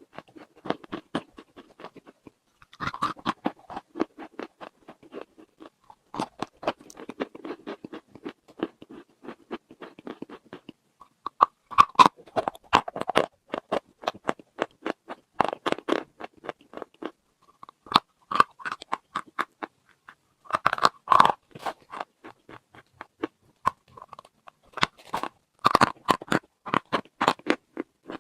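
Close-up crunching of chalk being bitten and chewed: runs of crisp cracks lasting a few seconds each, with short pauses between bites.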